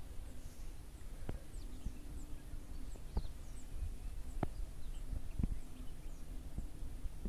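Rural trackside ambience: small birds giving short, high, falling chirps over a low rumble, with about four sharp clicks spread through.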